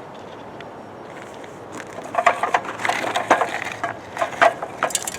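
Dirt, sand and small rocks being dug and scraped, a run of irregular gritty crunches starting about two seconds in.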